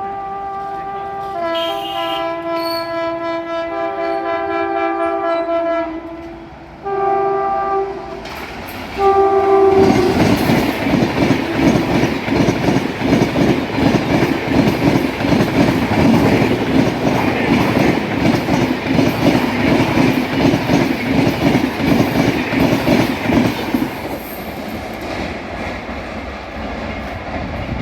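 WAP-7 electric locomotive sounding its horn in several blasts as the Coalfield Express approaches. About ten seconds in, the train passes at speed, with a loud rumble and a rapid clickety-clack of wheels over rail joints that fades near the end.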